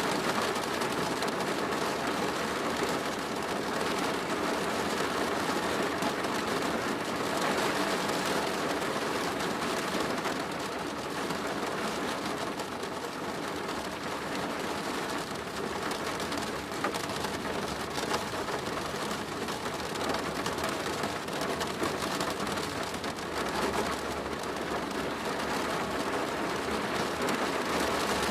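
Steady rain falling on a plastic roof: a dense patter of drops, with a faint low rumble in the last few seconds.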